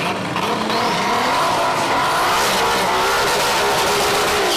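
Twin-VR6 Volkswagen doing a front-wheel-drive burnout: the engine is held at high revs while the front tyres spin and squeal on the pavement.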